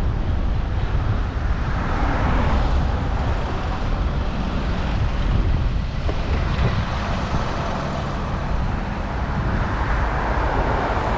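Steady rush of wind on the microphone mixed with road traffic noise, heard while riding a bicycle.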